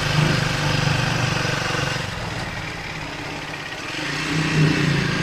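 Triumph Speed 400's single-cylinder engine running as the motorcycle rides on, with wind and road noise; the sound eases off about two seconds in and picks up again about four seconds in.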